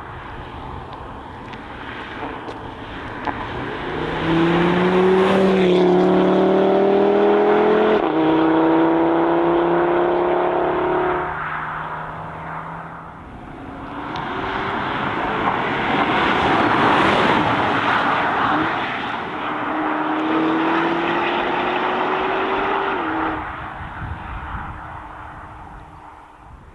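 Sports car engines accelerating hard one after another, each engine note rising in pitch. There is an upshift about eight seconds in, and the last run cuts off sharply near the end.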